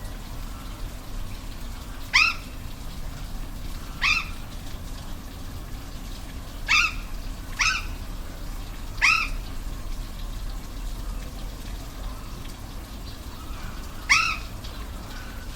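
Six short, high animal calls, each sweeping up then down in pitch, sounding at uneven intervals over the steady rush of a waterfall.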